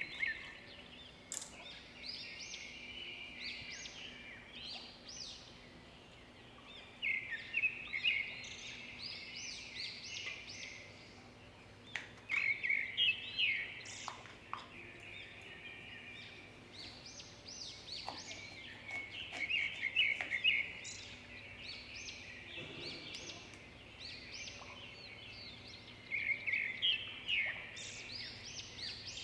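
A bird chirping in quick runs of high notes, one run every few seconds, with a few sharp clicks of a knife on a wooden chopping board in between.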